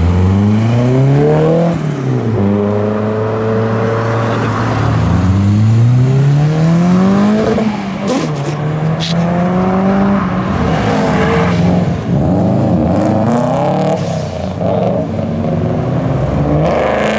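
Car engine accelerating hard away, its pitch climbing and then falling back at each gear change, several times over.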